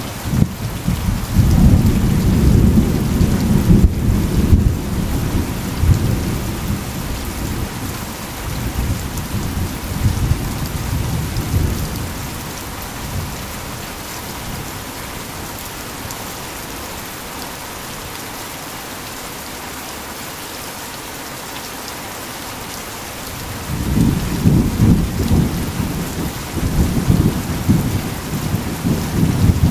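Heavy rain falling steadily, with rolling thunder: a long low rumble that dies away about twelve seconds in, then a fresh rumble beginning near the end.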